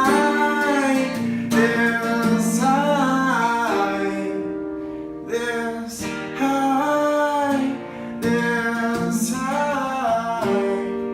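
Acoustic guitar strummed with a singing voice over it, holding long notes that glide up and down in several phrases.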